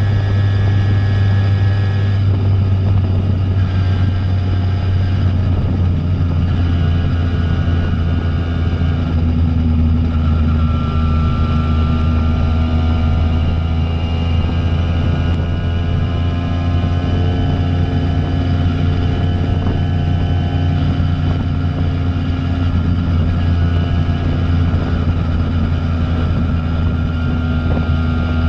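Single-cylinder two-stroke engine of a Simson moped running through a JW 85G+ aftermarket expansion exhaust while riding, at a fairly steady engine speed with slight changes in pitch.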